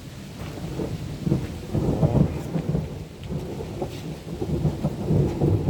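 Thunder rumbling low and long, swelling about a second in and again near the end.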